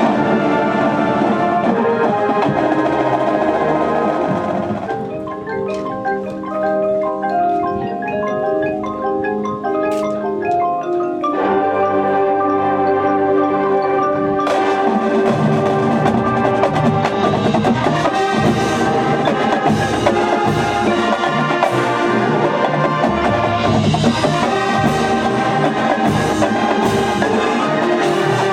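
High school marching band playing its field show. About five seconds in the full band drops away to a passage of separate ringing mallet-percussion notes. Sustained winds return around twelve seconds in, and the full band with drums comes back from about fourteen seconds.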